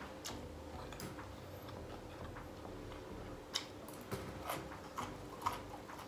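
Quiet eating sounds: scattered soft clicks and smacks of chewing, with chopsticks and a plastic takeaway tub being handled on the table. The clicks come about once a second and are more frequent in the second half.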